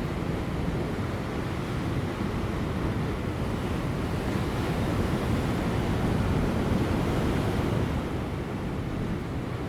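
Large ocean waves breaking on offshore rocks: a continuous rush of surf that swells to a peak past the middle and then eases off.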